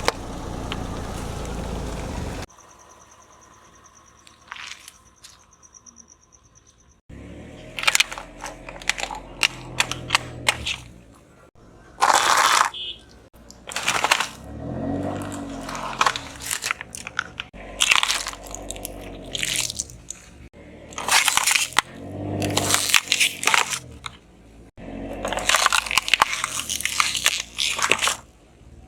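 Objects being crushed under a car tyre: a burst of steady noise at the start, then from about seven seconds in, repeated bursts of crunching and crackling, some with a creaking squeal.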